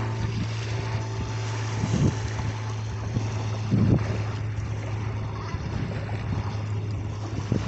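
Wind buffeting the microphone in short gusts, about 2 and 4 seconds in, over a steady low hum.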